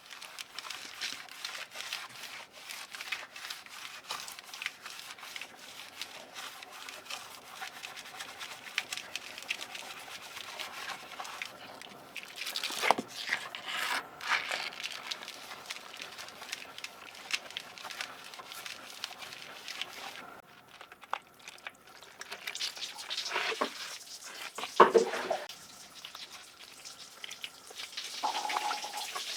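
Keyboard parts being washed and scrubbed in water: dense small scratching and clicking, with drips and splashes. There are a few louder knocks and splashes around the middle and again near the end.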